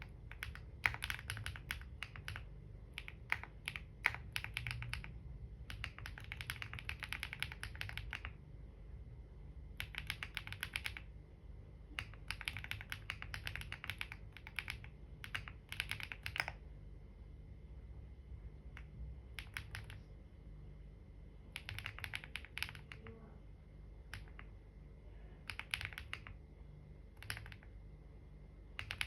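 Computer keyboard typing in runs of rapid keystrokes, broken by short pauses of a second or two.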